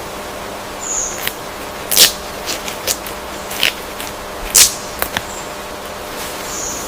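Jungle ambience: a steady hiss with about eight sharp snaps and clicks scattered through it, the loudest about two seconds in and again about four and a half seconds in, and two short high chirps, one about a second in and one near the end.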